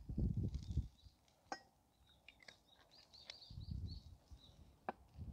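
Small birds chirping in a quick run of short, high calls, with a few sharp clicks and two low rumbling bursts.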